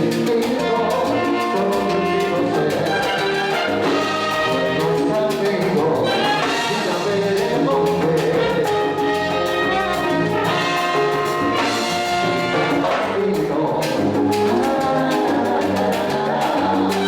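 Live salsa romántica from a salsa orchestra in an instrumental passage, the horn section of trumpets and trombones playing over the band's steady rhythm.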